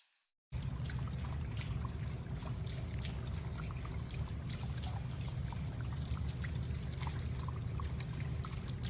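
Water trickling and splashing at a koi pond, a steady noisy wash with a low rumble underneath, cutting in suddenly about half a second in.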